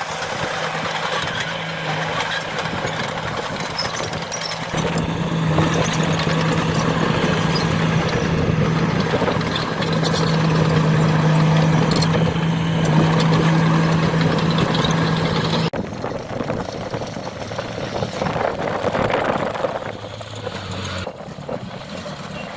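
Diesel engines of heavy earthmoving machines working, with a steady engine drone that grows louder about five seconds in. About two-thirds of the way through it cuts off abruptly and gives way to a lower-pitched engine, which stops near the end.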